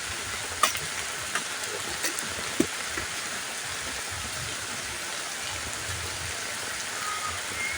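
Steady rain hissing, with a few sharp drips striking close by in the first three seconds.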